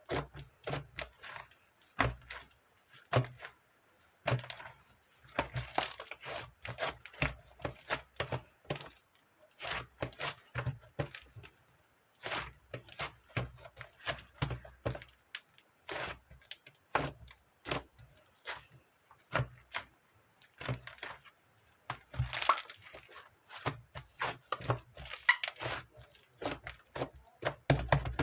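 An irregular run of sharp clicks, taps and cracking knocks, many with a dull thud under them, coming in quick clusters with short pauses.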